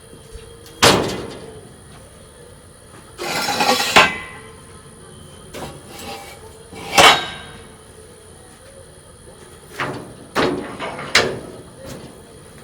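A series of hard knocks, about six at irregular intervals, with a rough scraping sound lasting under a second after the first knock.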